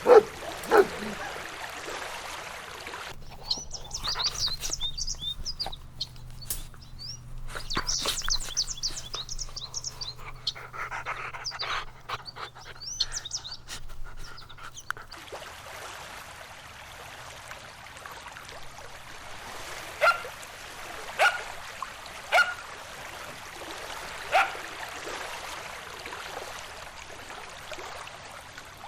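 A dog barking twice. Then small birds chirp and sing rapidly for about twelve seconds. Later come four single short barks about a second apart, over a steady background hiss.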